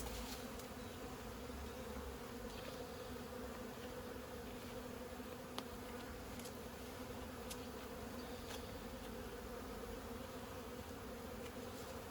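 Honey bees from a disturbed feral colony buzzing steadily around the hive cutout, a hum pitched around 250 Hz, with a few faint ticks. The colony is defensive and agitated.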